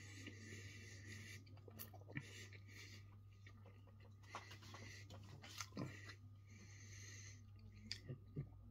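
Faint sounds of a man chewing a mouthful of burger with his mouth closed, breathing through his nose in soft hissing breaths about a second long, with a few small mouth clicks over a low steady hum.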